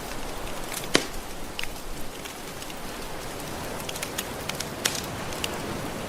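Wood fire crackling with scattered sharp pops, the loudest about a second in and near the five-second mark, over a steady wash of soft ocean waves.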